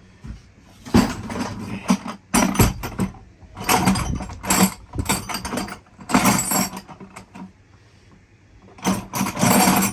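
Hand work on a boat's engine bay: repeated bursts of clattering and rattling metal, about six of them a second or two apart, the longest and loudest near the end.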